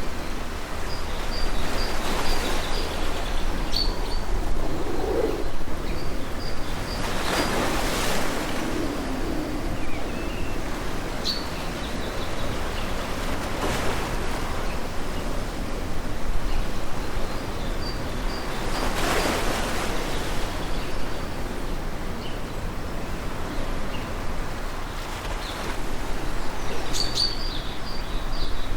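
Ocean surf: waves washing in as a steady rushing noise that swells every several seconds, with small birds chirping briefly above it.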